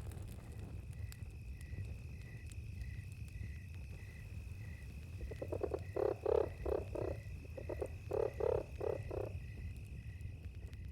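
Frog croaking in two bouts of quick pulsed calls in the middle of the clip, over a steady high drone of night insects with soft chirps repeating about every two-thirds of a second. Underneath are a low rumble and faint crackles of a campfire.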